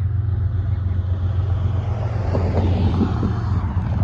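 Steady low rumble from an approaching diesel freight train.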